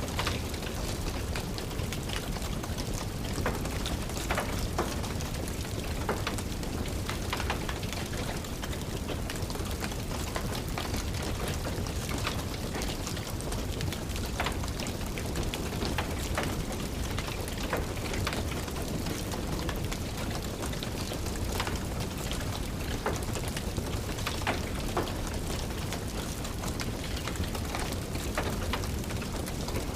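Steady rain hiss with a wood fire crackling, small sharp pops scattered irregularly throughout.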